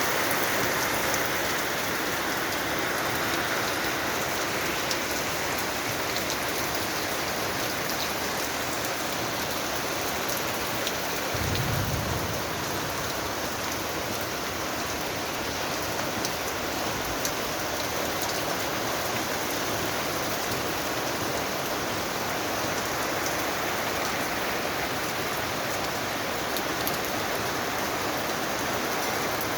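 Steady rain falling, a dense even hiss with many small drop ticks on surfaces. A brief low thump comes about twelve seconds in.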